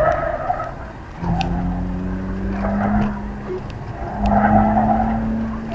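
BMW E46 325xi's inline-six engine pulling under throttle, heard from inside the cabin. Its pitch rises and falls as the driver lifts and gets back on the power. Over it the tyres squeal in bursts through the slalom turns: at the start, about three seconds in, and again from about four to five seconds in.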